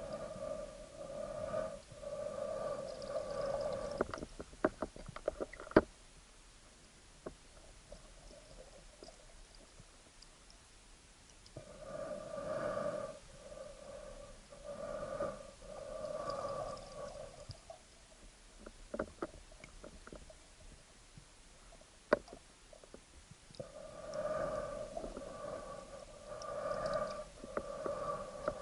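A spearfisher breathing through a snorkel: a run of pulsing, hollow-sounding breaths about every eleven seconds, with quieter gaps between. Sharp clicks and knocks fall in the gaps, the loudest at about five seconds and twenty-two seconds in.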